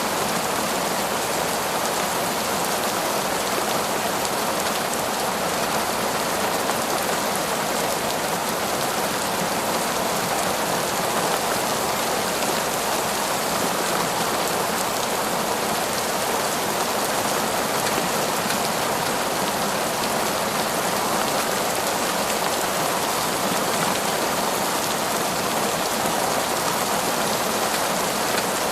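Heavy, torrential rain falling on forest foliage, a steady, even downpour.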